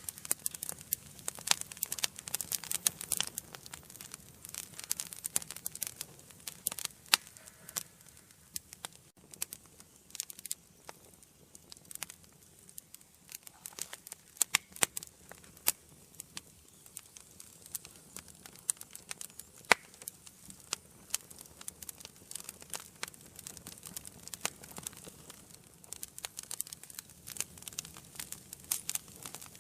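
Wood fire burning in a fireplace: irregular sharp crackles and pops over a soft low hiss, busiest in the first few seconds and again near the end.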